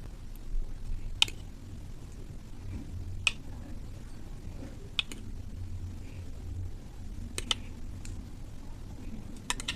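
Spoon and dishware clicking every couple of seconds, with soft squishing, as curd (dahi) is spooned into crisp puri shells.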